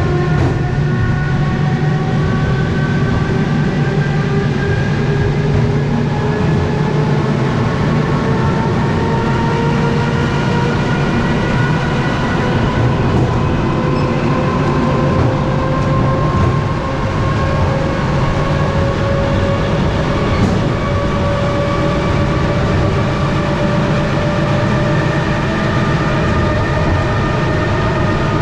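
Suburban electric train heard from inside the carriage: a steady rumble of wheels on rails under the motors' whine, which rises slowly in pitch as the train gathers speed. There are a few faint clicks.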